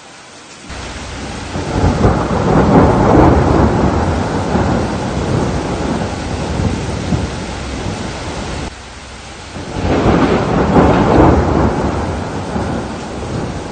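Heavy rain with two long rolls of thunder. The first swells about two seconds in and slowly fades, the level drops suddenly, and a second roll swells about ten seconds in and fades again.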